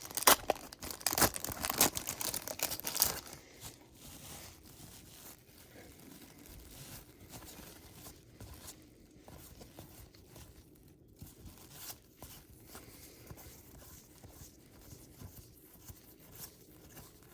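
Baseball card packaging being torn open and crinkled for about the first three seconds, then softer rustling and shuffling of cards as they are handled.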